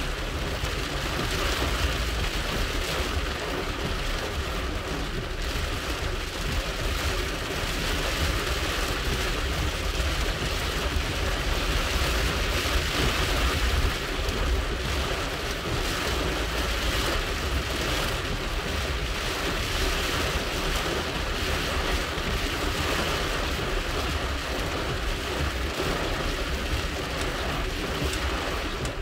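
Heavy rain beating on a car's windshield and roof, heard from inside the moving car, a steady hiss over a low rumble of engine and road.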